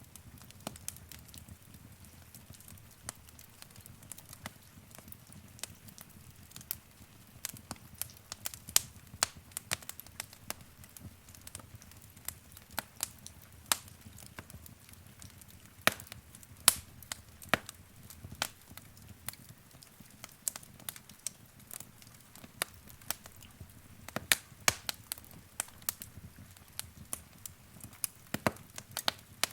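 Wood fire crackling: irregular sharp pops and snaps over a low steady rumble of burning.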